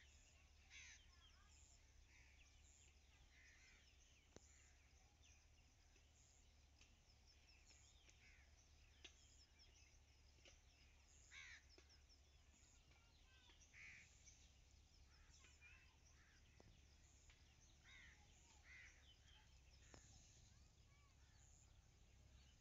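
Near silence in open country, with faint, scattered bird chirps and calls about once a second and a few faint clicks.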